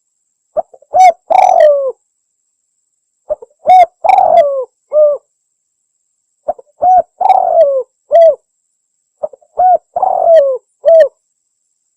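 Spotted dove (tekukur) cooing loudly, four times over. Each phrase is a couple of short notes followed by a longer coo that falls in pitch, repeating about every three seconds.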